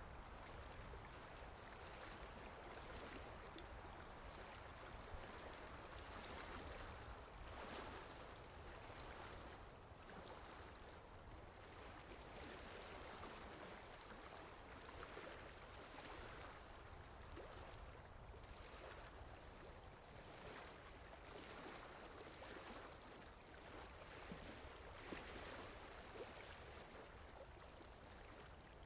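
Steady rain falling: a faint, even hiss of rainfall with light drop ticks scattered through it.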